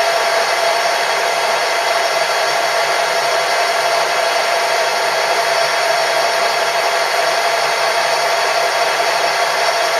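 Machine tool motor running steadily, with a constant whine over an even rushing noise.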